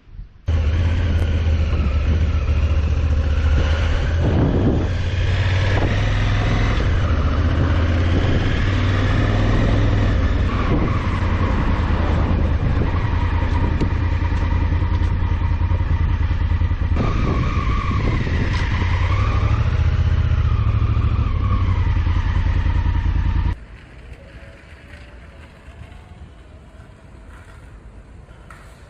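Honda Africa Twin's parallel-twin engine running under way, a steady low rumble with rising and falling pitch, which cuts off suddenly near the end to a much quieter background.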